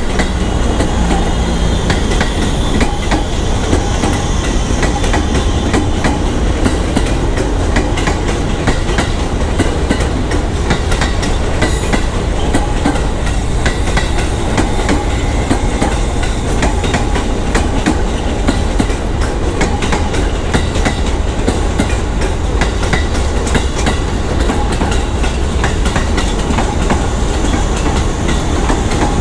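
A KRL electric commuter train (electric multiple unit) passing by, its wheels clattering over the rail joints in a steady, dense run of clicks over a continuous rumble.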